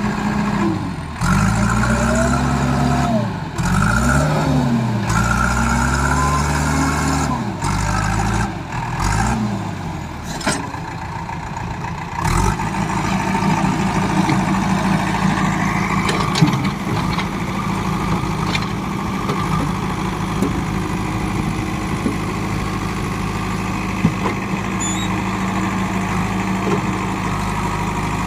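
Heavy diesel engines revving up and down repeatedly, as during a pull to free a tractor stuck in mud. After about twelve seconds they settle into a steady run.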